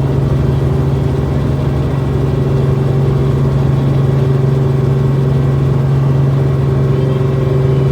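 Helicopter running with a loud, steady drone: a strong low hum with a fainter higher tone above it, unchanging throughout.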